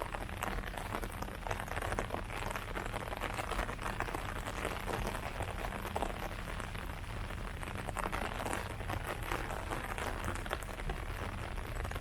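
Steady rain falling on leaves, a dense patter of many small drop impacts.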